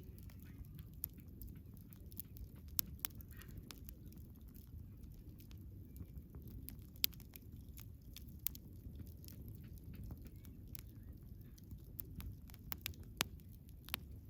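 Wood fire crackling: irregular sharp pops and snaps over a low, steady rumble of the burning fire, the loudest pop about halfway through.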